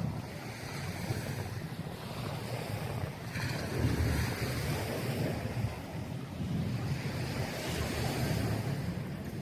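Wind buffeting the microphone in uneven gusts, over a steady wash of surf.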